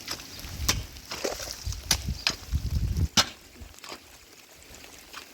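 A few sharp knocks, like chopping or striking wood, spaced a second or so apart, the last about three seconds in and the loudest, over a low rumble that fades out soon after.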